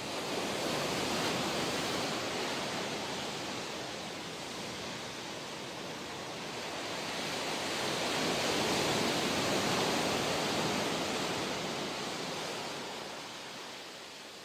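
Ocean surf breaking and washing on the shore, a steady rush that swells twice, once near the start and again past the middle, before easing off.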